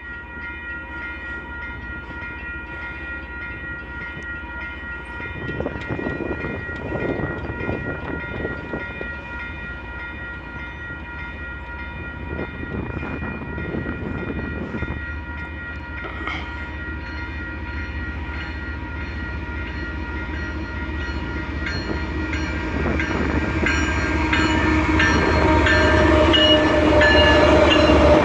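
Canadian Pacific freight train led by two GE ES44AC diesel locomotives approaching a level crossing, growing steadily louder over a steady ringing of the crossing signals, with horn blasts.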